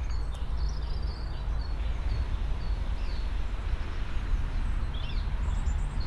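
Small birds chirping, with short high notes repeating every half second or so, over a steady low outdoor rumble.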